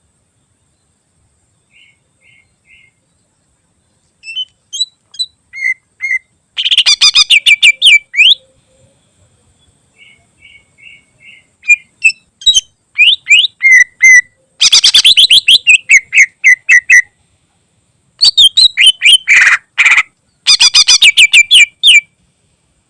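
Greater green leafbird (cucak ijo) singing. It starts with a few faint notes, then comes in loud runs of rapid, sharp repeated notes with short pauses between them.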